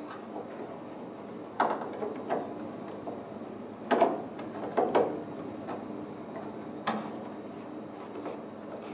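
A handful of separate knocks and clunks, with the loudest just after the middle, over a steady low hum.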